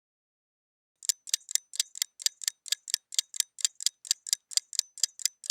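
Countdown-timer sound effect: a steady ticking, about four sharp ticks a second, starting about a second in.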